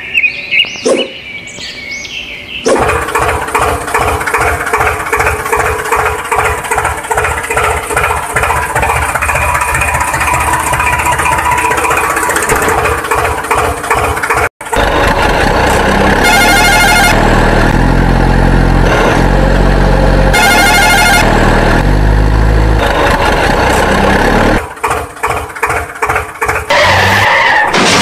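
Vehicle engine sounds in several cut-together segments: a rhythmic running engine for the first half, a sudden cut about halfway, then a heavier, deeper engine sound.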